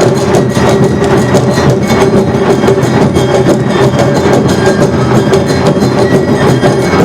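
Awa odori festival band playing live: dense, rapid drum and percussion strikes over steady held melody tones.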